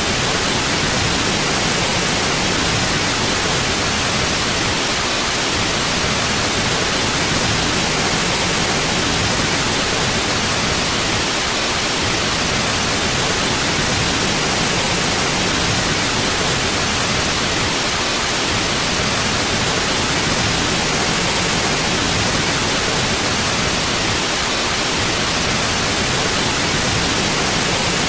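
Steady electronic white noise: an even, unbroken hiss across the whole range, with no changes.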